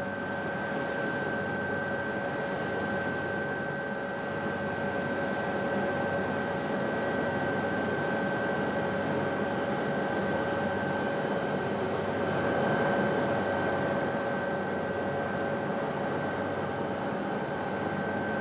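Helicopter in steady flight: an even rushing noise with two constant whining tones.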